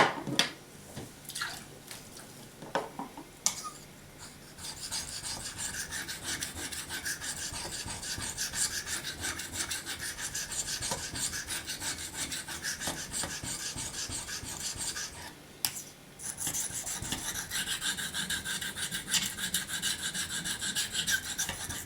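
Steel knife blade being stroked rapidly back and forth on a wet waterstone, a steady gritty scraping. A few sharp clicks come first, and the strokes pause briefly about two-thirds of the way through before carrying on.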